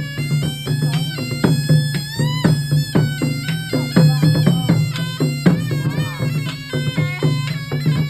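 Traditional Cham music: a shrill double-reed shawm, the saranai, plays a quick, ornamented melody with pitch slides over a steady low drone, while hand drums beat along.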